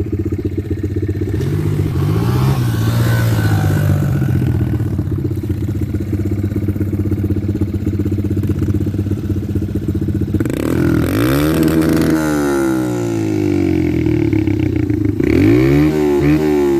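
Dirt bike engine running steadily, revving up and dropping back several times: once about two seconds in, in a quick run of rises and falls from about ten to thirteen seconds in, and again near the end.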